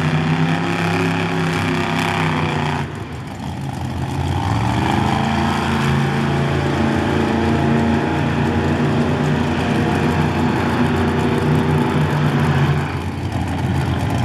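Monster truck engine running at a steady high idle, dropping off about three seconds in, then revving back up and holding, with another dip near the end.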